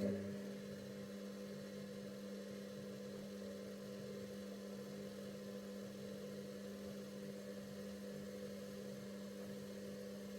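Bauknecht WA Pure ST 14 FLD washing machine's drum motor running steadily with a low, even hum as the drum turns one way during the steam self-cleaning program.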